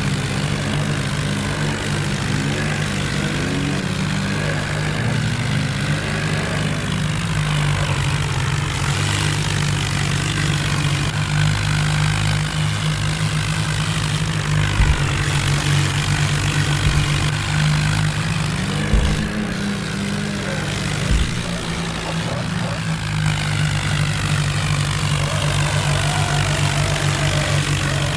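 Tractor engine running steadily, its low note shifting a little in pitch a few times.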